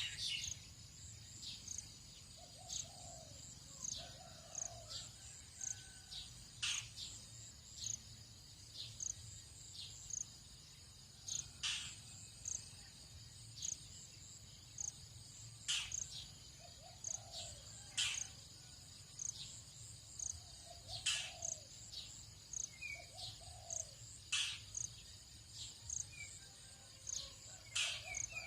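Tropical dawn chorus: steady high insect chirring with a short high chirp repeating about once a second, sharp bird calls every few seconds, and a few lower, softer calls.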